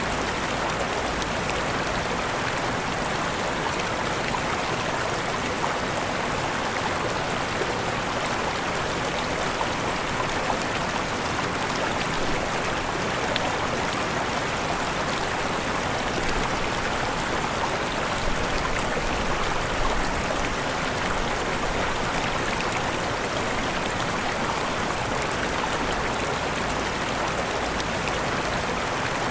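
Waterfall: water falling and rushing in a steady, even roar without pause.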